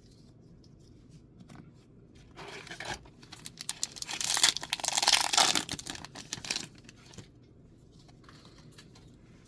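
Foil wrapper of a Magic: The Gathering Mystery Booster 2 pack being torn open and crinkled: a short rip about two seconds in, then a longer, louder stretch of tearing and crinkling from about four seconds to nearly seven.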